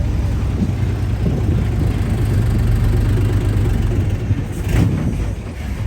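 Vehicle engine idling with a steady low rumble, with a brief knock a little before the end.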